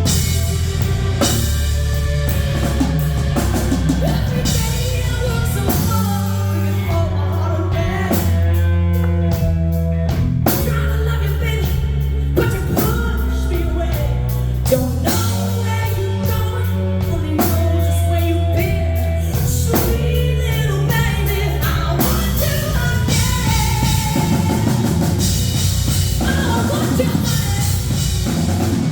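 Live rock band playing, with a drum kit, heavy bass and guitar, and a woman singing over it.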